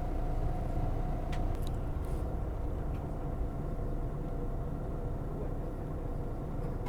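Bus engine running at a steady idle, a low rumble with a constant hum, heard from inside the bus, with a few faint clicks about a second and a half in.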